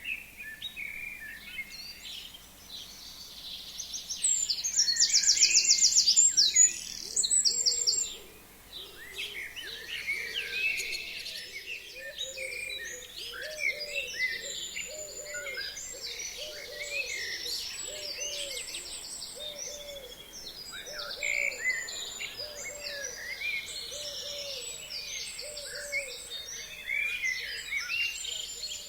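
A chorus of forest songbirds: many short chirps and whistles overlap throughout, with one loud rapid trill from about four to eight seconds in. Under them a lower hooting call repeats about once a second through most of the middle.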